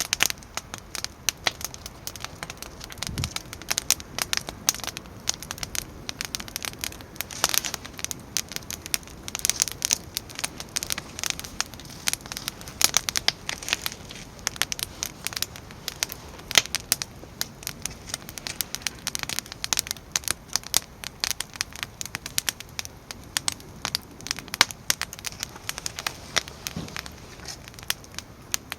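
Firewood burning in a Solotour fire pit, crackling with dense, irregular pops and snaps.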